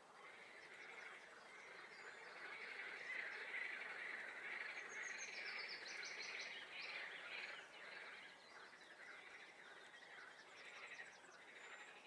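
Swamp frogs calling in a dense, continuous chorus, with a few higher songbird notes over it in the middle and near the end.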